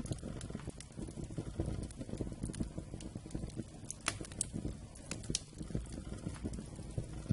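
Wood campfire burning, a steady low rumble of flames with frequent sharp crackles and pops of the wood, two louder pops about four and five seconds in.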